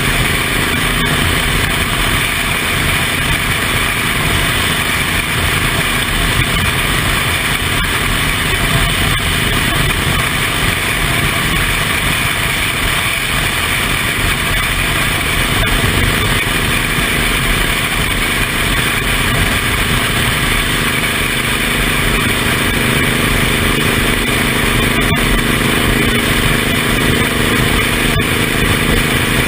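Suzuki Intruder M1800R's V-twin engine running steadily at cruise, with heavy wind rushing over the microphone.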